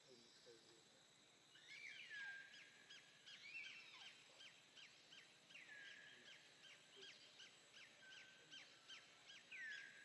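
A bird calling in a quick, even series of short falling whistled notes, with now and then a longer falling note, starting about a second and a half in.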